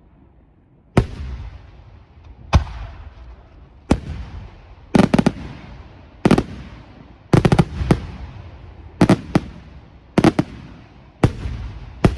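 Fireworks display shells going off, starting about a second in. There is a loud bang roughly every second, some coming as quick clusters of cracks, and each trails off in an echoing rumble.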